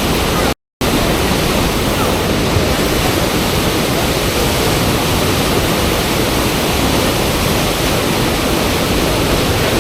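Loud, steady rushing of river water pouring over the standing surf wave. The sound drops out completely for a moment about half a second in.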